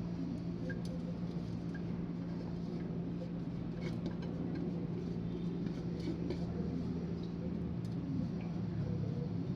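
Steady low hum with a few faint, light clicks and taps scattered through it.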